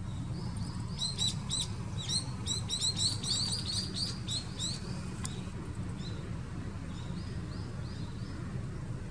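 Small birds chirping: quick, short high calls come thick and fast for the first few seconds, then thin out to a few fainter notes. A steady low rumble runs underneath.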